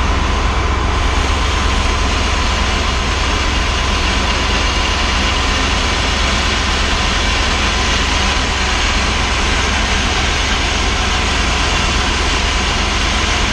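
A Unisteam PPUA mobile steam unit blowing hot steam into a fuel tank: a loud, steady hiss of steam over the low, steady rumble of the unit running. The tank is being steamed out to clear flammable fuel vapours before welding.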